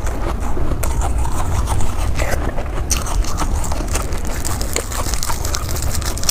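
Close-up crunching and chewing of ice from the freezer, with many short irregular cracks as the ice breaks between the teeth.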